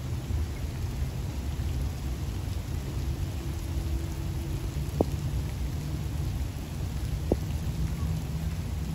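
Steady rain falling, over a continuous low rumble. Two sharp single drips or taps stand out, about five seconds in and again about two seconds later.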